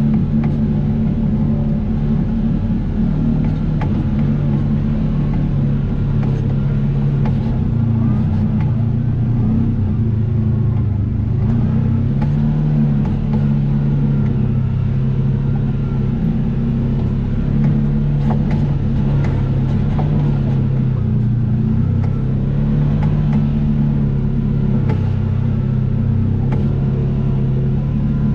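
Vehicle engine running steadily while under way, its pitch drifting up and down a little with the throttle, with occasional short knocks.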